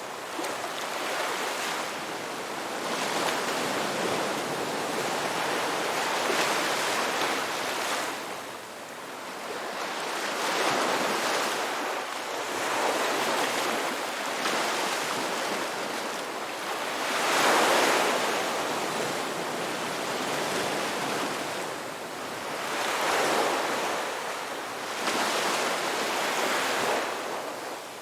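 Ocean waves washing onto a beach. A continuous surf hiss swells and fades with each wave every few seconds, and the biggest wash comes a little past the middle.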